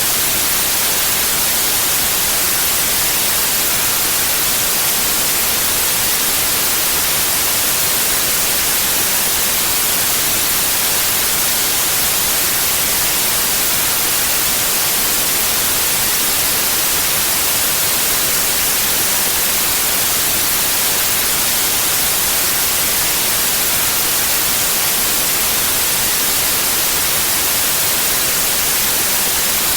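Steady white noise: an even, unchanging hiss with its energy spread across all pitches, strongest in the treble.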